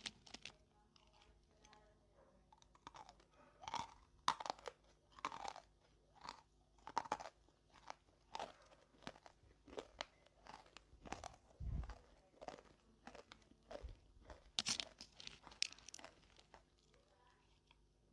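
Chewing and crunching of dry roasted nakumatt clay: a run of irregular crisp crunches, about two a second, bunching more densely about four seconds in and again about fifteen seconds in. One dull low thump comes about twelve seconds in.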